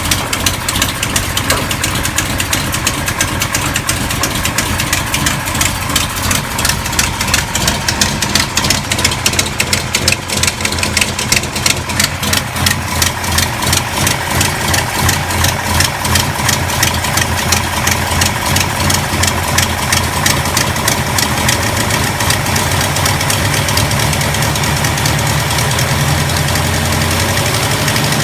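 1970 Dodge Charger engine, fitted with a Lunati aftermarket camshaft, idling with a steady run of rhythmic exhaust pulses.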